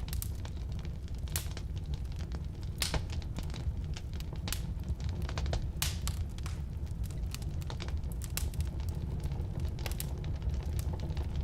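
Firewood burning in a fireplace: a steady low rumble of flames with frequent, irregular crackles and sharp pops from the burning logs.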